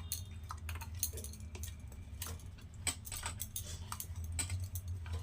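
A spoon clicking and scraping against a mixer-grinder jar as ground spice paste is scooped out onto chicken, in irregular light taps, over a steady low hum.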